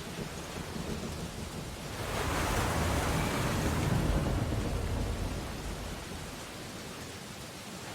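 Ocean waves on a beach: a wave breaks about two seconds in, swelling to a rushing crash and then washing out over the next few seconds.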